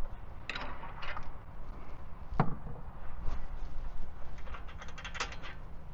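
Hand tools clicking and knocking against metal while the front cylinder's spark plug is taken out. There are a few separate knocks, a sharper one about midway, and a quick run of clicks near the end.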